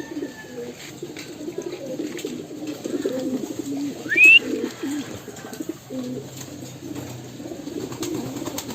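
Racing pigeons cooing continuously in the loft, many birds overlapping, with one short, loud rising squeak about four seconds in.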